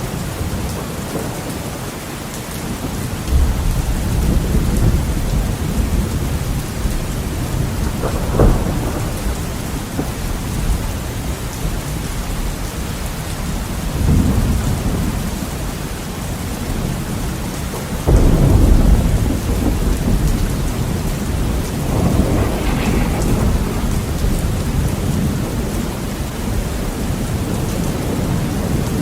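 Heavy rain falling steadily, with rolling thunder: low rumbles swell about three seconds in, again near the middle and strongest a little past halfway, with a sharper crack about eight seconds in.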